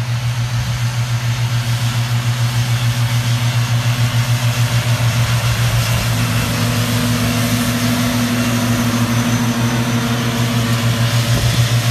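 A vehicle engine running steadily close by: a low drone that throbs several times a second. A higher steady tone joins in about halfway through and fades near the end.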